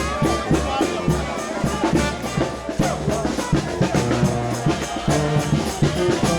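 New Orleans brass band playing a second-line parade tune: low brass bass notes and horns over bass drum and snare beats keeping a steady groove.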